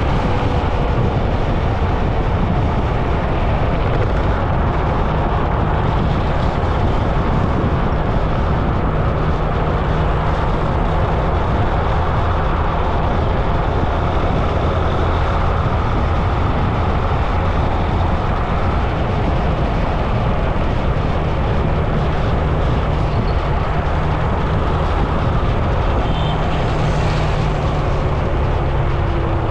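Steady road-riding noise: a loud rush of wind and road noise over the camera's microphone, with a low engine hum throughout. A short rise in hiss comes near the end.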